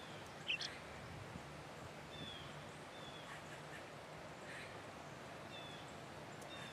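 Faint bird calls: short high chirps that slide downward in pitch, repeating every second or so, with one louder, sharper call about half a second in.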